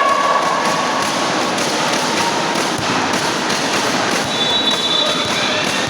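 Steady crowd noise in an indoor basketball gym during play, with short high squeaks of sneakers on the court near the start and near the end, and the odd thud of the ball.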